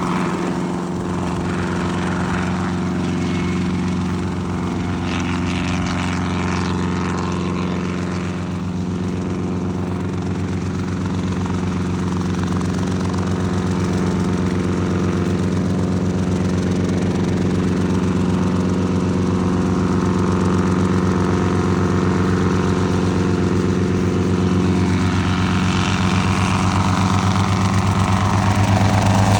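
Helicopter running steadily nearby: a loud, even, low hum with a fixed pitch that grows a little louder near the end.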